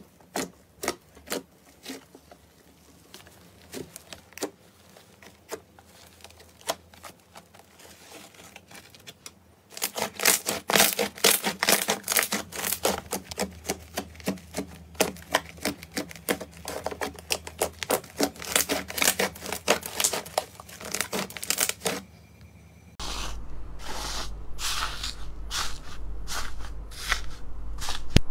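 Crunchy slime being pressed and squeezed by hand, giving quick runs of crackling clicks. The clicks turn much denser and louder about ten seconds in, and a low steady hum sits under the last few seconds.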